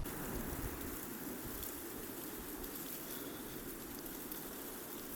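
Steady, even hiss of outdoor noise with a few faint ticks.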